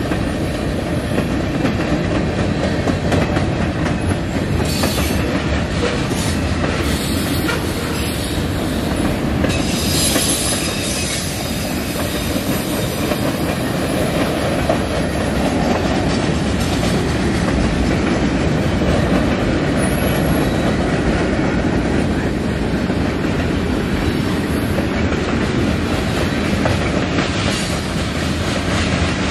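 Freight cars of a manifest train rolling past close by: a steady rumble and clatter of steel wheels on the rails, with a few brief high-pitched wheel squeals now and then.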